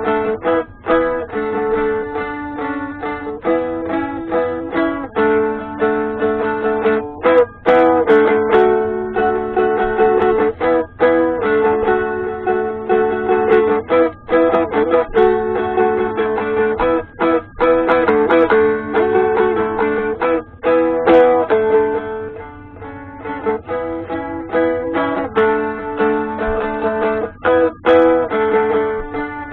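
Seagull Merlin M4, a four-string dulcimer-style instrument, strummed, picking out a melody over ringing drone strings, with a few brief breaks between phrases.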